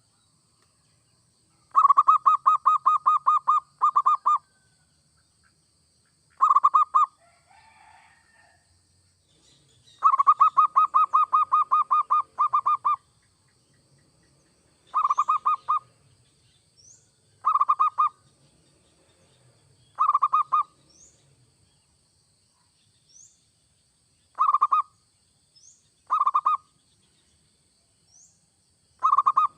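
Zebra dove (perkutut) cooing: fast trains of clipped, pulsed coos on one pitch, with two long runs of a few seconds and then shorter bursts every couple of seconds. In the second half a faint high rising chirp repeats in the background.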